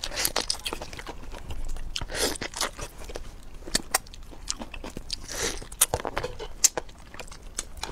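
A person biting, crunching and chewing food, with many sharp mouth clicks and short crunches throughout.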